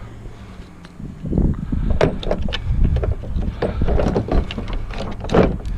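Irregular knocks and clatter of a piece of wood striking a metal part to knock it loose, starting about a second in and loudest near the end.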